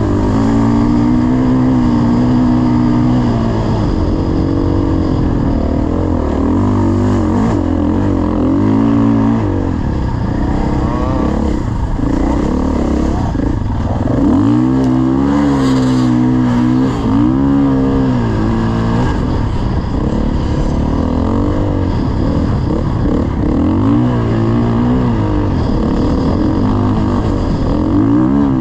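Dirt bike engine running under throttle, its pitch rising and falling over and over as the rider opens and closes the throttle.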